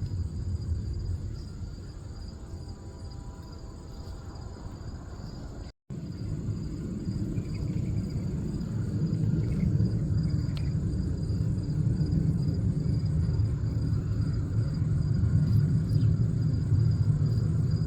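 Outdoor ambience: a steady low rumble under a constant high-pitched insect drone. The rumble grows louder after about eight seconds, and the sound cuts out completely for an instant about six seconds in.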